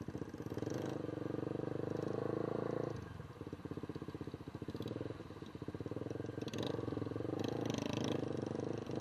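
An engine running with a fast, even pulsing beat, easing off about three seconds in and then carrying on.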